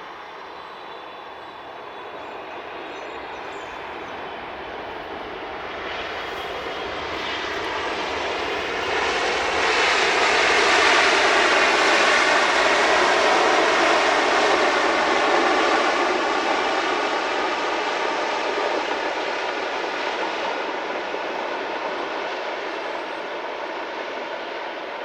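Jet airliner passing close by on its landing approach: the engine noise swells to a peak about halfway through, then fades as it moves away.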